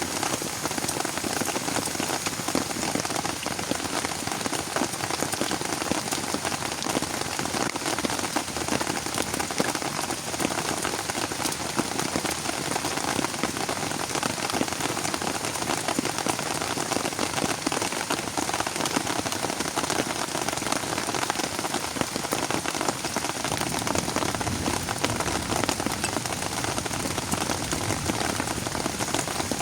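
Steady heavy rain, a dense even patter of many drops striking surfaces.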